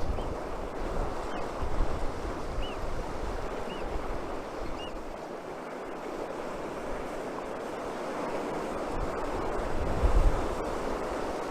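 Atlantic surf washing steadily on the shore, with wind buffeting the microphone in low rumbling gusts that swell near the end. A bird gives about five short high calls during the first five seconds.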